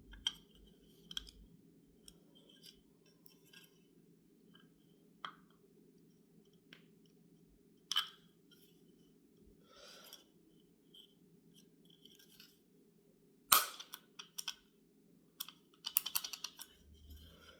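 Scattered light clicks and taps of small metal parts and tools being handled, with one sharp click about thirteen seconds in and a quick run of clicks near the end, over a faint steady hum.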